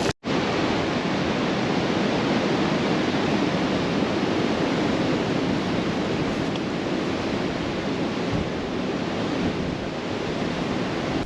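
Strong blizzard wind blowing over the microphone: a dense, steady rush of noise with no pauses, after a split-second dropout at the very start.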